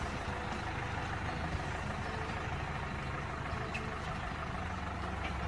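Engine of a vehicle hauling a farm tour wagon, running steadily at a low, even pitch with rumble and rattle from the ride.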